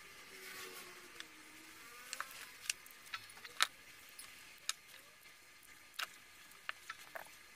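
Sparse small clicks and taps, about ten spread irregularly, from handling small battery-pack parts by hand, over a faint background hiss.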